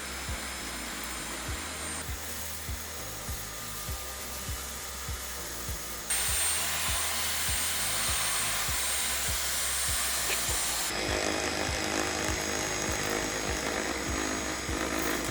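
LG CordZero A9 cordless stick vacuum running with a steady hiss and a thin high whine. Its sound changes abruptly about 2, 6 and 11 seconds in. Background music with a steady beat plays under it.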